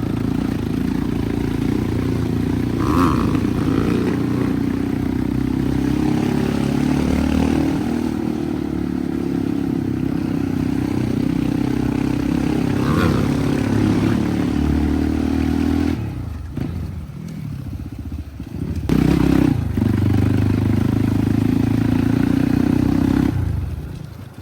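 Dirt bike engine running steadily as the bike is ridden. It eases off about two-thirds of the way through, picks up again, then drops away near the end.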